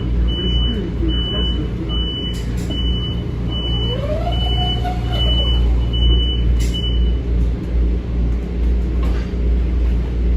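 Metro-North M7 electric train running, a steady low rumble throughout. Over it a high-pitched beep repeats about one and a half times a second and stops about seven seconds in.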